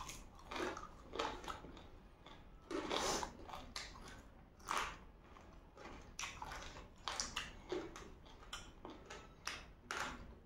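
Close-up eating sounds of people biting and chewing chicken feet: irregular short bursts of chewing noise, a dozen or so, with quiet gaps between them.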